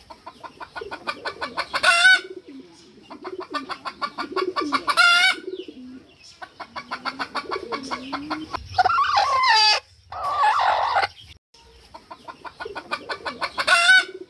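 Domestic hen clucking: four runs of fast, evenly spaced clucks, each building to a loud drawn-out cackle at its end. About nine and ten seconds in come two longer, louder calls.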